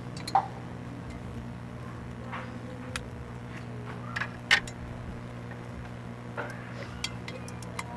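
A few sharp metallic clicks and clinks from hand tools working on the clutch assembly, over a steady low hum.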